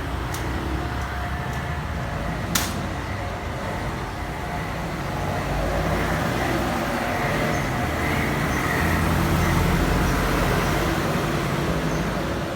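Steady low background rumble and hiss, swelling slightly in the second half, with one sharp click about two and a half seconds in.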